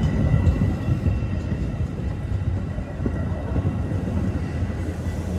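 Metra Milwaukee North commuter train running at the station: a steady low rumble with a faint, steady high whine.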